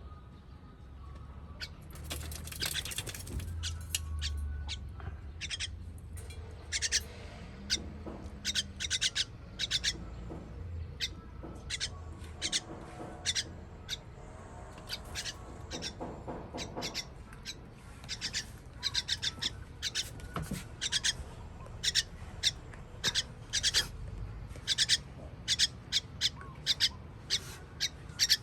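Baby bird begging calls: many short, sharp, high-pitched cheeps, repeated in quick runs and coming more often in the second half.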